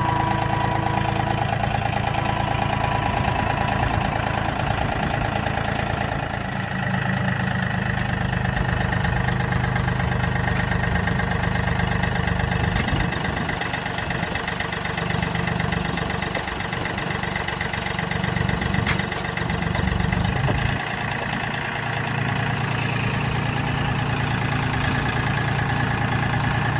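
An engine running at idle, its low note wavering a few times between about fifteen and twenty-one seconds in.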